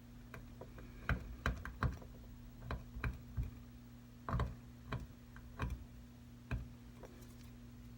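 Irregular light clicks and taps of small hand tools against an iPad's screen assembly during a repair, about a dozen in all, over a steady low electrical hum.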